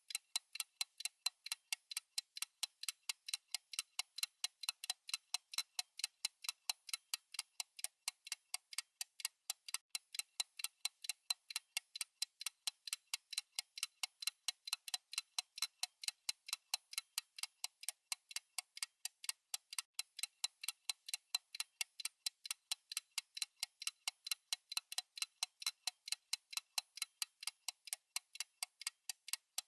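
Fast clock-style tick-tock sound of a countdown timer: sharp, bright ticks, several a second, evenly spaced and unbroken, alternating slightly louder and softer.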